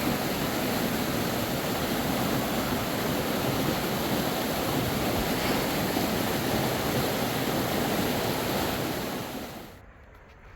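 Fast-flowing river water rushing steadily as an even, loud noise; it cuts off suddenly near the end to a much quieter background with a few faint clicks.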